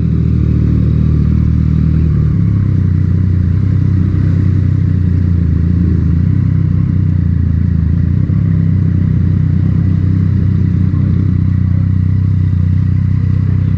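Yamaha MT-09's three-cylinder engine running through an Akrapovic titanium exhaust at a steady engine speed, loud and even, with no revving.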